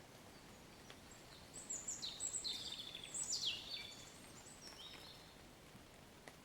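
A songbird singing a quick run of high, falling chirps, loudest about two to three and a half seconds in, over a faint steady hiss of rain.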